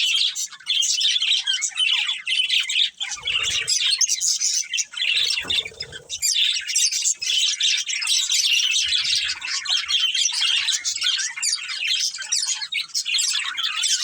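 A pair of budgerigars chattering and chirping continuously in a rapid stream of short, high chirps, with a couple of brief soft low rustles a few seconds in.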